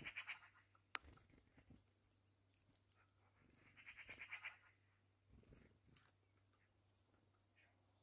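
Faint bird sounds: two short, rapid rattling bursts, one at the start and one about four seconds in, with a sharp tap about a second in and a few thin, high chirps later on.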